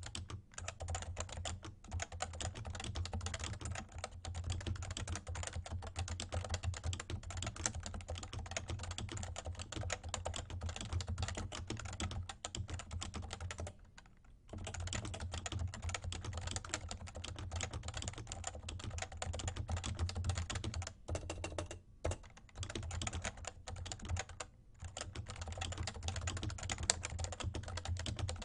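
Fast, continuous typing on a Realforce R2 TKL keyboard with light 30 g Topre electrostatic capacitive switches, a quick stream of soft key strokes broken by short pauses about halfway through and twice more later on.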